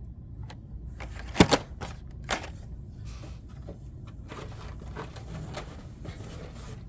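Carded Hot Wheels cars being handled: scattered clicks and light rustling of cardboard and plastic blister packs, with a sharp click about a second and a half in and another a second later.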